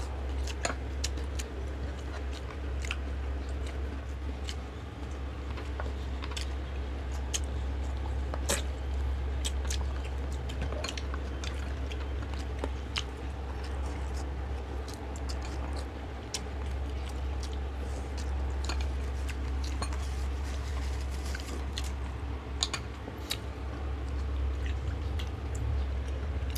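Close-miked mukbang eating: chewing and biting of lettuce, boiled pork knuckles and fried fish, with many scattered sharp mouth clicks and smacks. A steady low hum runs underneath.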